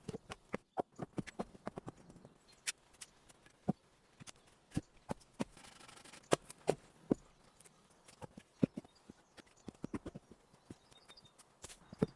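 Irregular sharp knocks and taps of hand building work, a few a second and uneven in strength, with a brief scraping rustle about six seconds in.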